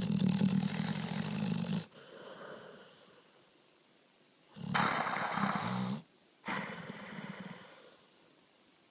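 A pit bull snoring in his sleep: two loud snores with a low buzz, each about a second and a half long, each followed by a softer breath that fades away.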